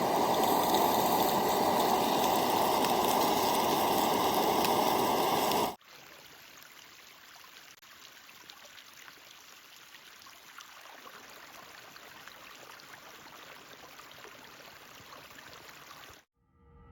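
Running water, a steady loud rush. About six seconds in it cuts off suddenly to a much fainter, steady rush, and it drops out just before the end.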